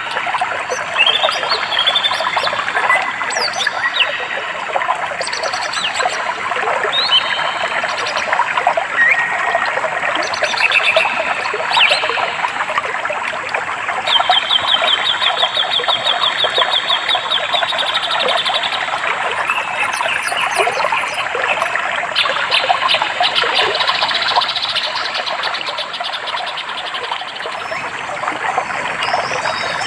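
Running stream water with several birds chirping and calling over it, including a long, rapid trill of repeated notes about halfway through.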